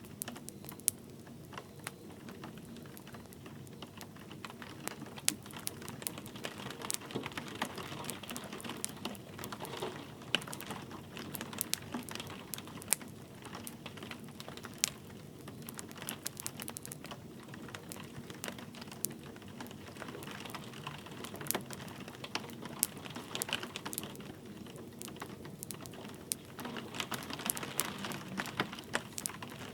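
Wood fire crackling, with irregular sharp pops and snaps, over the steady soft hiss of light rain.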